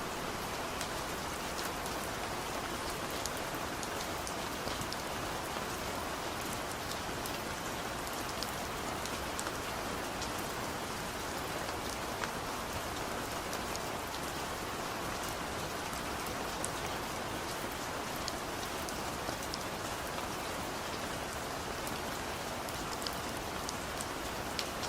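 Heavy rain falling steadily, a continuous even patter with scattered sharper drop ticks.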